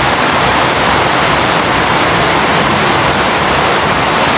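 Heavy rain pouring down in a storm: a loud, steady hiss.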